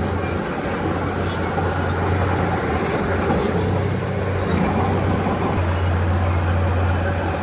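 Komatsu D31P crawler bulldozer's diesel engine running steadily under load, a constant low hum over dense mechanical noise, with scattered short high squeaks.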